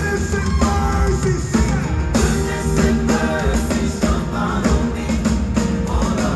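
Live gospel band playing loud and steady, with drum kit and heavy bass, and a lead line sliding up and down over it.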